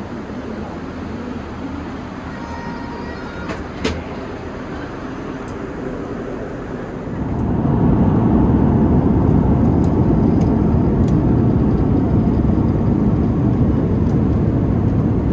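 Steady rumble of an Airbus A380 airliner heard inside the cabin. About seven seconds in it steps up sharply, louder and deeper, and stays there.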